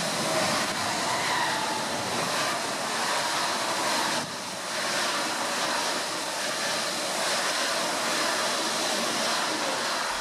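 ICE high-speed train passing a station platform at speed: a steady rush of wheel and air noise, with a brief dip about four seconds in.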